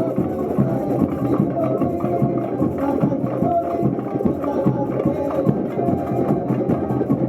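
Samba music with a fast, steady beat of drums and percussion under a melody line.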